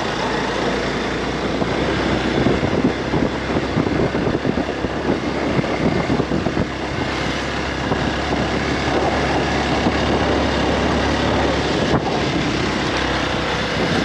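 Vehicle in motion on a road: steady engine hum with rushing, fluctuating road and wind noise.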